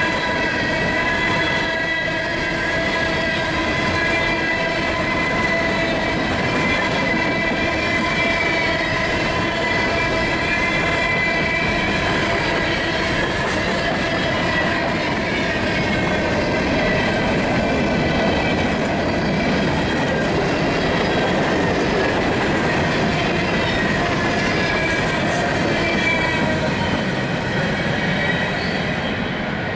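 Norfolk Southern coal hopper cars rolling past at close range: a loud, steady rumble and clatter of steel wheels on rail, with a chorus of high, steady wheel squeals over it.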